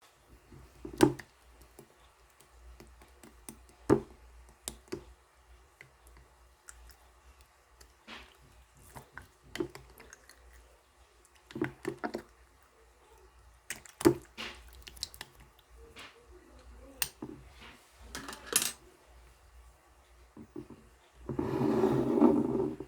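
Slime being squeezed and pressed by hand, giving sharp wet pops and clicks every second or few, then a longer squelching crackle near the end.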